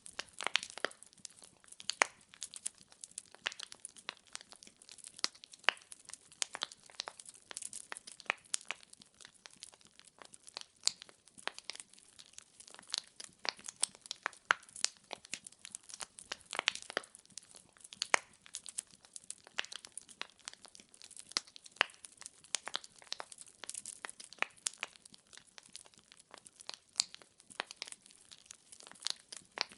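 Wood fire burning in a fireplace, with frequent sharp, irregular crackles and pops of varying loudness over a faint hiss.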